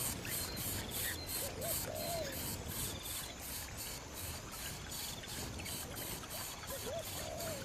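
Steady outdoor background noise with a fast, even high pulsing, like insects, and two faint short calls that rise and fall, about two seconds in and again near the end.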